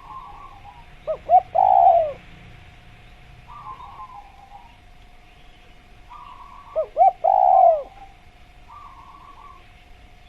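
Spotted dove (tekukur) cooing: two short notes and a longer drawn-out coo, given twice about five and a half seconds apart. Softer chirping notes come between the coos.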